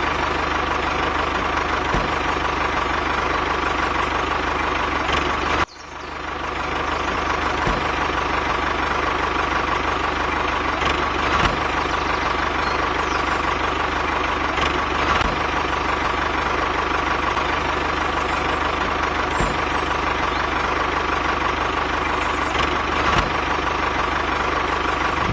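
Tractor engine running steadily. About six seconds in it cuts out briefly, then picks back up over a second and runs on evenly.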